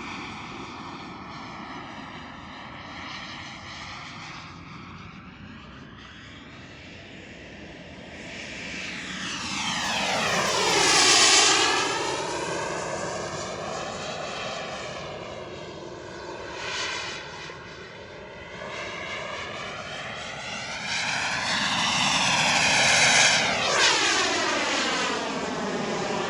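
Turbine engine of a large radio-controlled BDX jet flying past, its whine swelling and fading as it makes two loud close passes, one near the middle and one near the end.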